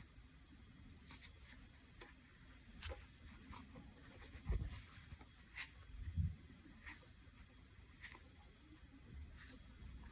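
Faint, scattered small clicks and light taps of nail tools and small objects being handled at close range, with two soft low bumps about halfway through.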